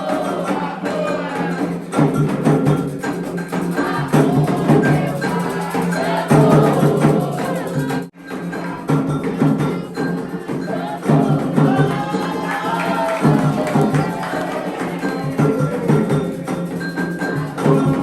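Candomblé ritual music: group singing over a steady rhythm of drums and a struck wood-block-like percussion. It breaks off for a moment about eight seconds in, then carries on.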